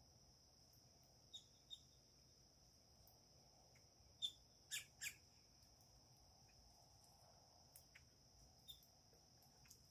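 Faint bird chirps: short, sharp calls scattered through, the three loudest close together about four to five seconds in, over a steady high-pitched drone.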